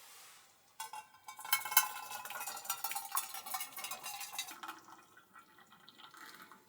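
Rapid clinking and rattling of metal kitchenware, with ringing tones. It starts about a second in, is busiest through the middle and thins out near the end.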